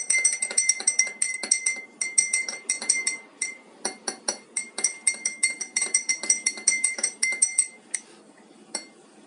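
Teaspoon stirring sugar into hot water in a cup, clinking rapidly against the cup's walls with a bright ringing tone, several strikes a second. The stirring stops about eight seconds in.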